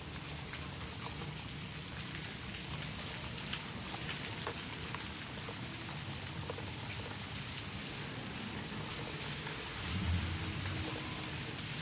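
Steady rain falling, with many drops pattering on surfaces. A brief low rumble comes near the end.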